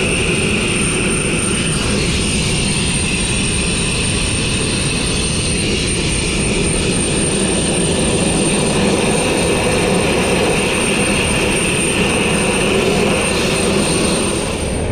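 Abrasive blast nozzle spraying fine crushed glass media in a steady, loud rushing hiss with a thin high whistle, shutting off right at the end.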